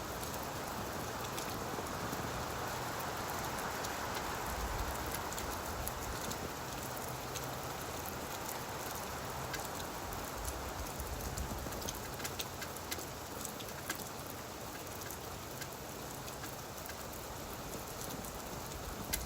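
Steady gentle rain falling on leaves: an even hiss with scattered ticks of single drops.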